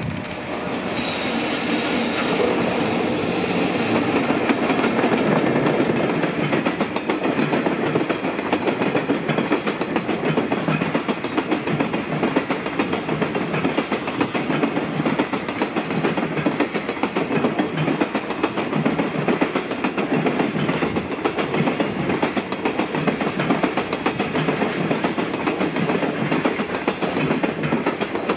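A JR Freight container train hauled by an EF65 electric locomotive passes at speed. Its wagons' wheels clatter rapidly over the rails. The sound builds over the first few seconds as the locomotive draws level, then holds steady as the container wagons roll by.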